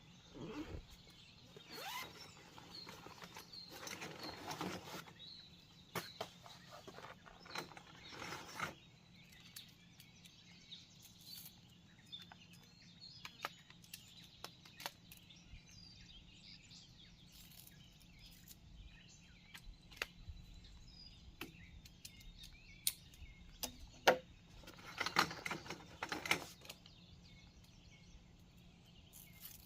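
Outdoor ambience: scattered clicks and knocks with a few short bursts of rustling, over faint distant birds chirping.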